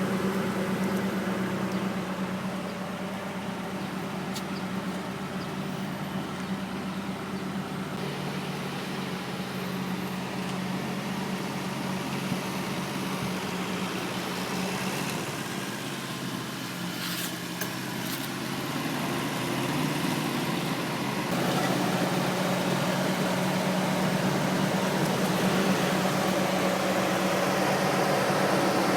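1999 Mitsubishi Lancer GLXI's engine idling steadily, heard from outside the car, getting a little louder about two-thirds of the way through.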